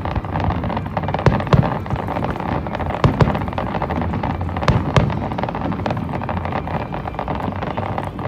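Fireworks crackling densely, with several sharper pops among the crackle, over a steady low hum.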